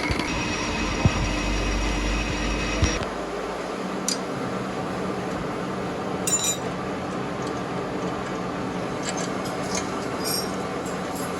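A workshop machine running with a steady hum and whine, then shutting off about three seconds in. After that a quieter steady hum remains, with a few light metallic clinks scattered through it.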